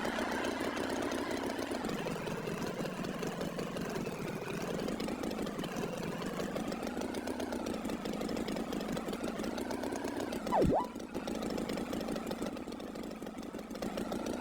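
Animated farm tractor's engine running steadily. A short, louder sweep sound that drops and rises again comes about ten and a half seconds in.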